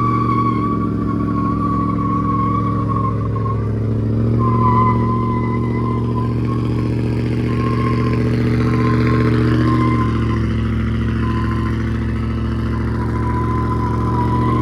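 A vehicle doing a burnout: the engine held at high, near-steady revs, shifting slightly a few times, while the spinning tires give a steady high-pitched squeal.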